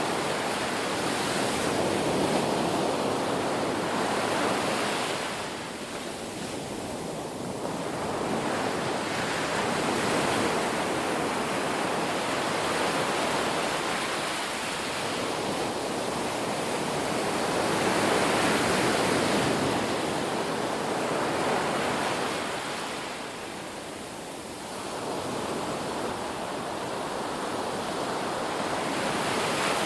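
Ocean waves breaking and washing onto shore, the surf swelling and ebbing in slow surges every several seconds.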